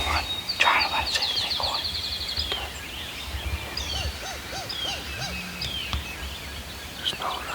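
Wild turkey gobbler gobbling loudly about half a second in, with songbirds trilling high in the background. A row of five quick rising-and-falling notes comes about four seconds in, and another short gobble-like burst near the end.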